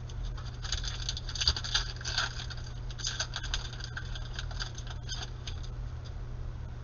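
Glossy Panini Prizm trading cards being slid and flicked one behind another in the hands, a quick run of crisp little rasps and clicks, thickest in the first half and thinning toward the end. A steady low hum runs underneath.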